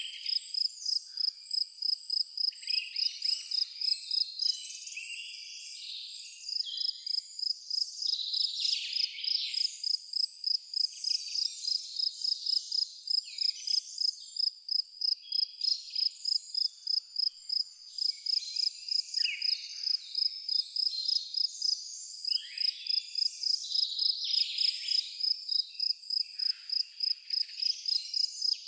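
An insect chirping in a steady high-pitched pulse, about four pulses a second, that stops briefly about five seconds in. Birds call and twitter irregularly over it.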